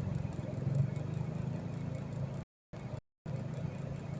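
A vehicle engine idling with a steady low hum. The sound cuts out completely twice for a moment a little past the middle.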